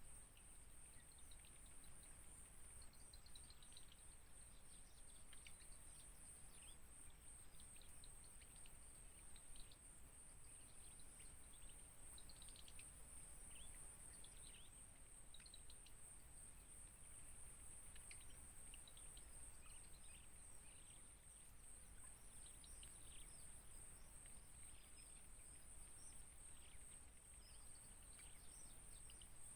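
Faint outdoor ambience: many short, high, falling bird chirps scattered throughout, over a steady high-pitched insect drone.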